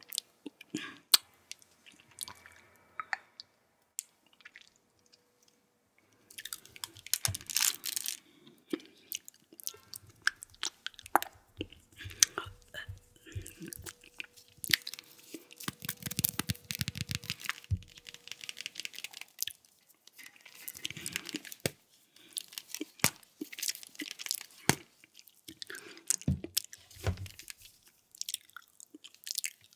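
Close-miked wet chewing and mouth sounds of eating honey jelly: squishy clicks, smacks and crackles in uneven bursts, with a brief near-quiet pause about four to six seconds in.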